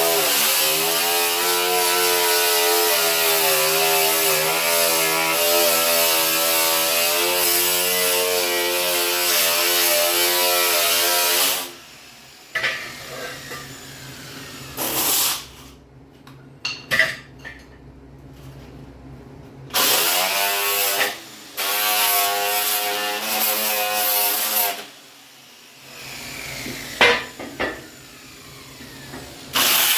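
Electric angle grinder running with a steady whine for about eleven seconds, then stopping. A few short bursts follow, then another run of about five seconds, and it starts again just before the end.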